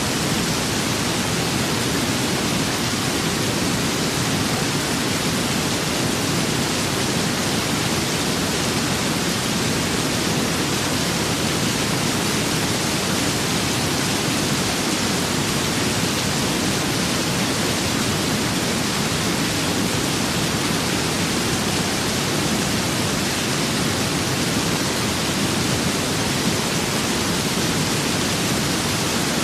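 Steady rain and wind, an even, unbroken hiss with no separate drops, gusts or thunder standing out.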